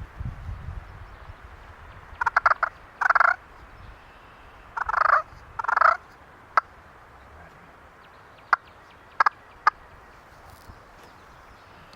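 Wild turkey gobbler gobbling: four loud rattling gobbles in two close pairs, followed by a few short, sharp single notes.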